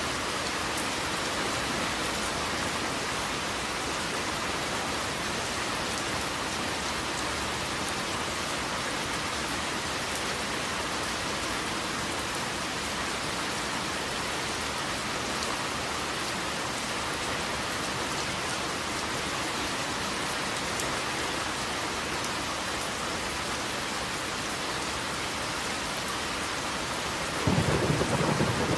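Steady rain falling in an even hiss. Near the end a low roll of thunder breaks in, suddenly louder than the rain.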